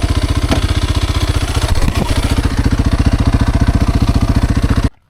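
Kawasaki KLX230R dirt bike's single-cylinder four-stroke engine idling steadily with an even, rapid pulse. A couple of faint clicks sound over it, and it cuts off abruptly near the end.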